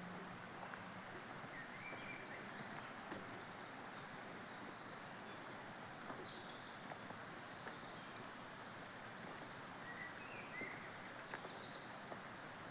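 Outdoor ambience: a steady low rushing noise with a few faint, short bird chirps and occasional light ticks.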